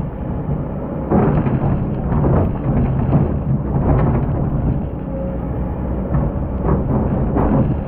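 Hydraulic excavator's diesel engine working under load, with repeated gritty crunching and scraping as the bucket digs into hard-packed sand.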